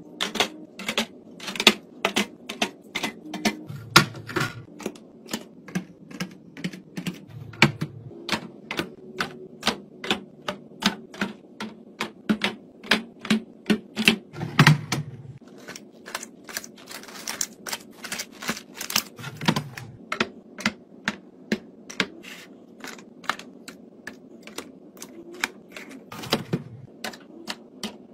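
Rapid light clicks and taps, about two to three a second, of small items and containers being handled and set down, with a heavier knock every few seconds.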